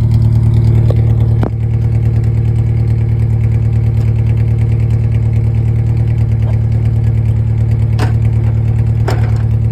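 Ford Ranger pickup engine idling steadily, its exhaust giving a low, even pulsing note out of a newly fitted exhaust tip. There are a few brief clicks, about a second and a half in and near the end.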